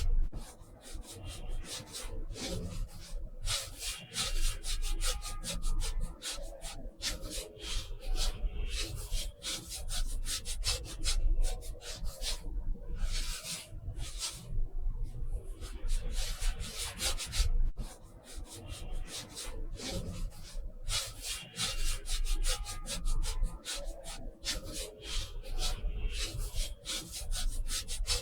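A brush scrubbing and stroking across watercolour paper in quick, irregular scratchy strokes, with short pauses between runs, over a low steady hum.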